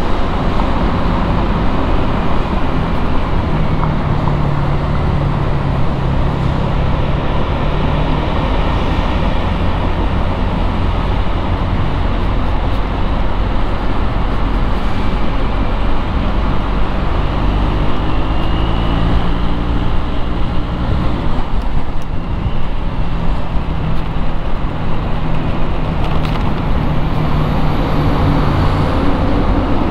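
Street traffic noise: a loud, continuous engine rumble whose pitch shifts now and then, with vehicles running close by.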